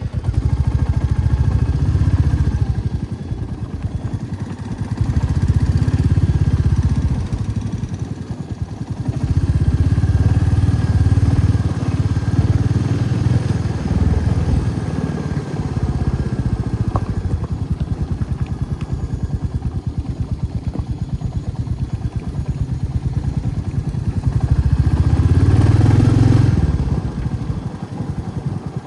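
Motorcycle engine running as the bike rides along, swelling louder several times as the throttle opens.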